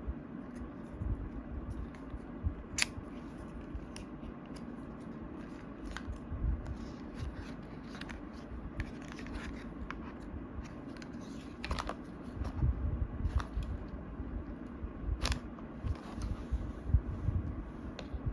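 Apple Watch box and packaging being handled: scattered sharp clicks and taps, rustling and scratching of paper and plastic, and a few soft thumps as items are set down, busier in the second half.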